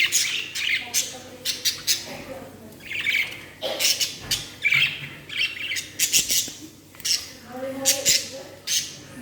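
Budgerigar squawking and chirping in quick, short, shrill calls, several a second with brief pauses.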